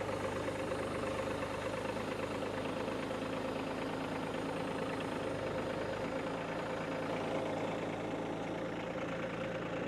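Kubota tractor's diesel engine running steadily as the tractor works its forks under a large wood round.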